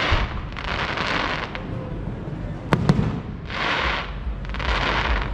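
Fireworks going off. Two sharp bangs come in quick succession about midway, between several short bursts of crackling, fizzing shells, over a low rumble.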